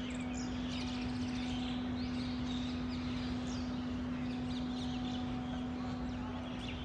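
Many birds chirping and calling, with short chirps throughout, over a steady low hum.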